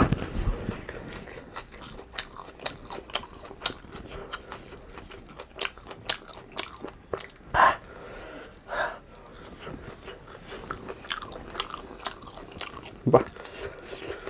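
A person chewing and biting food close to the microphone: a dense, irregular run of small crunches and wet mouth clicks, with a few louder bites along the way.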